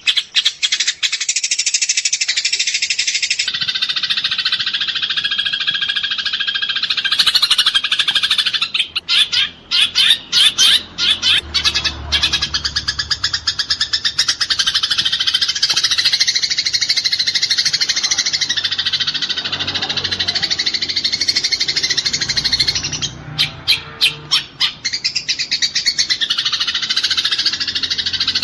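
Eurasian tree sparrows chirping in a dense, continuous chatter, the rapid calls of sparrows fighting. Bursts of very fast chirps break out about a third of the way in and again near the end.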